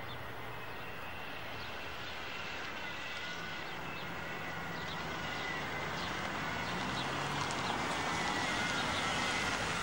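A Mercedes-Benz W124 saloon's engine running as the car creeps closer, growing gradually louder, over open-air street ambience with a few faint high chirps.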